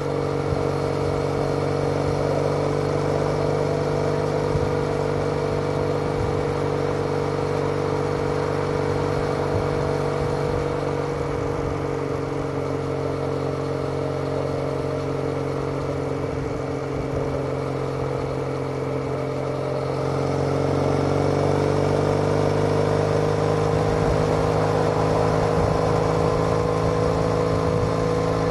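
Triumph Bonneville parallel-twin engine heard through TOGA aftermarket exhaust silencers, running steadily while riding. About two-thirds of the way through it gets a little louder and slightly higher in pitch as the throttle is opened.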